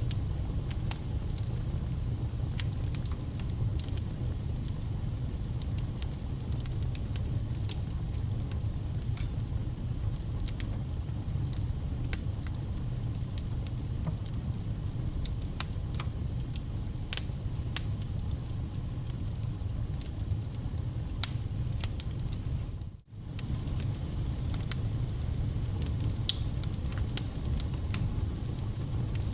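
Wood fire burning, with a steady low rumble and frequent irregular sharp crackles and pops from the burning logs. The sound drops out for a moment about two-thirds of the way through.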